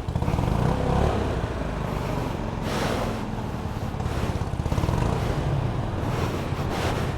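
Motorcycle engine running with the muffler removed, exhausting through a bare open pipe; the engine sound comes in suddenly at the start and continues steadily, rising briefly a few times.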